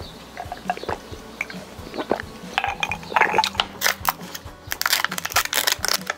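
Close-up eating sounds: chewing with crisp crunches, sparse at first and coming thick and fast from about two and a half seconds in, as of crispy fried shrimp being bitten, over quiet background music.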